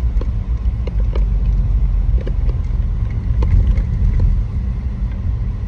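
Car driving at highway speed, heard from inside the cabin: a steady low road and engine rumble, with a few faint clicks.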